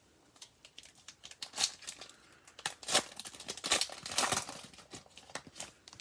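A foil trading-card pack wrapper being torn open and crinkled by hand, in irregular crackling bursts that are busiest in the middle.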